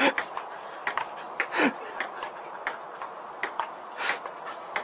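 A dog making two short calls that fall in pitch, one at the start and a louder one about a second and a half in, with rapid clicking and tapping throughout.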